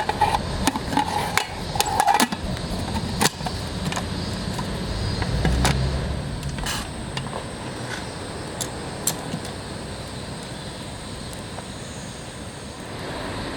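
A few sharp clicks and knocks in the first few seconds, then a low rumble that swells around the middle and settles into a steady background.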